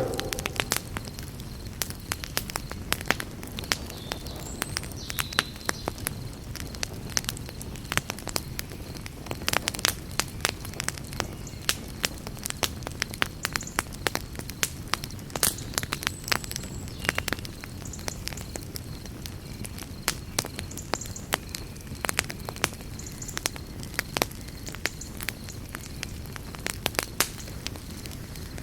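Campfire crackling: frequent irregular pops and snaps of burning wood over a steady low background of the fire.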